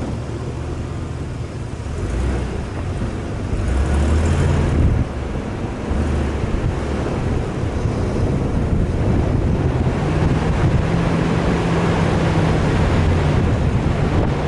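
A 4x4 vehicle's engine running as it drives off, with wind and road noise over it. The engine note shifts a little, dips about five seconds in, then settles into a steady hum.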